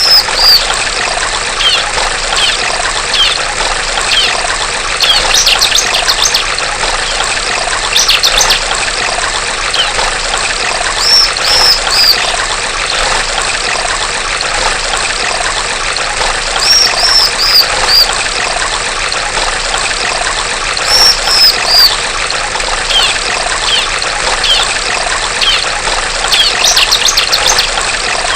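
Female bar-winged prinia (ciblek) calling over a steady trickle of running water: every few seconds a run of three or four high arched notes, or a quick rattling burst.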